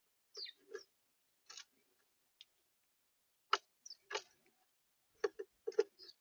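Irregular sharp taps and clicks on a bird feeder, about a dozen spread unevenly, typical of animals pecking at seed and shifting on the feeder close to the microphone.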